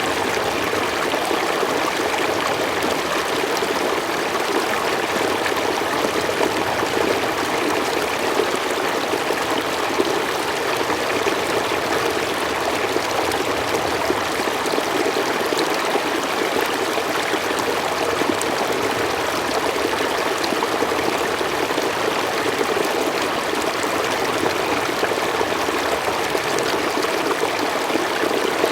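A forest stream flowing over rocks, a steady, even rush of running water with a light trickling edge.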